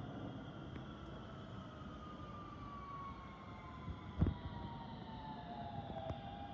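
R160B Siemens subway train's traction motors whining in several tones that fall slowly in pitch as the train slows, over a low rumble. There is one sharp loud knock about four seconds in and a lighter click near the end.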